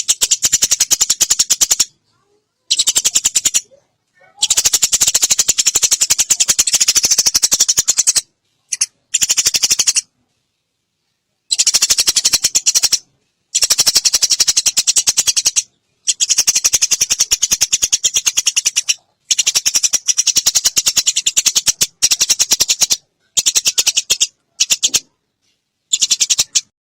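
Eurasian tree sparrows' rapid, dense fighting chatter, in bursts of one to four seconds that start and stop abruptly, with short silences between.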